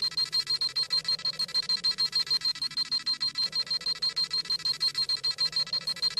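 Scouter sound effect: rapid high-pitched electronic beeping, about ten beeps a second and steady throughout, as the scouter scans a power level.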